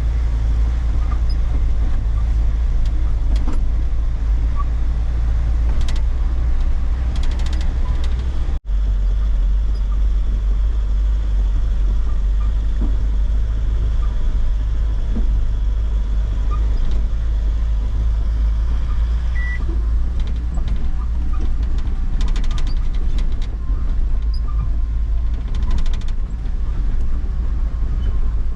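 A truck running on the road: a steady, loud low engine and road rumble with a few light clicks. The sound drops out for an instant about eight and a half seconds in.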